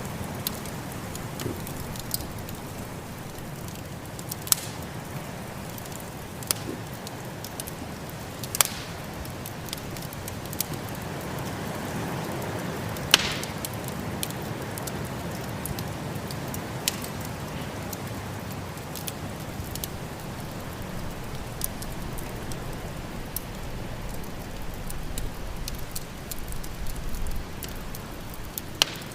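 Wood fire crackling in a fireplace, sharp pops coming irregularly every second or two with one louder snap about halfway through, over a steady rushing background of storm wind.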